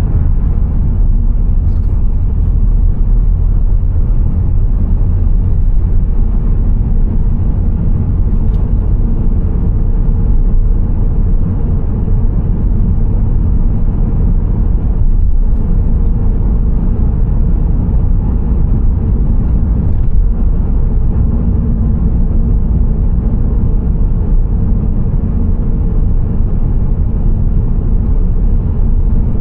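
A car driving on the road: a steady low rumble of tyre and engine noise.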